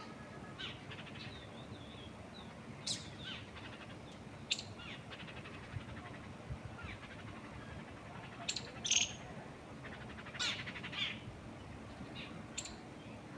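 Birds chirping in short, separate calls every second or so, with a few louder chirps in the second half, over a steady background hiss.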